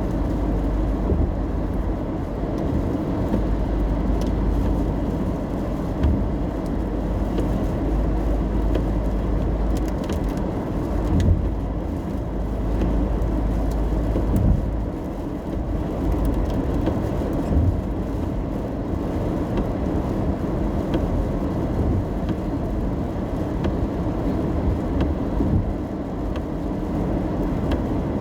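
Inside a car driving in the rain: a steady low rumble of road and engine noise heard from the cabin, with scattered faint taps.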